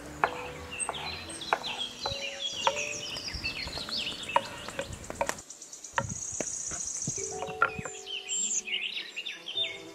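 Kitchen knife cutting carrots on a wooden chopping board, a series of sharp chops, with birds chirping throughout. The chopping stops about halfway and only the birdsong continues.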